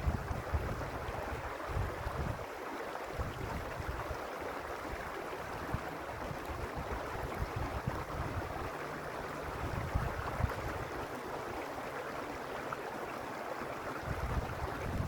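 Mountain stream flowing over stones: a steady rush of water, with wind buffeting the microphone at the start and again near the end.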